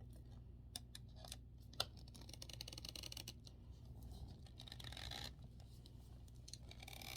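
Faint clicks and a fast, scratchy ticking from screws being turned and parts handled while a drying rack is assembled by hand; the screws are loose and keep spinning in the frame.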